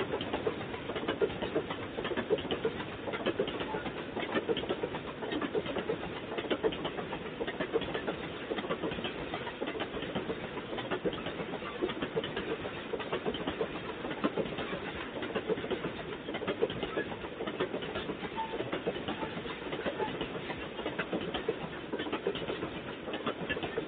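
Loaded bauxite gondola wagons of a freight train rolling past: a steady rumble of wheels on rails, broken by frequent short clicks and knocks. Heard thin through a security camera's microphone.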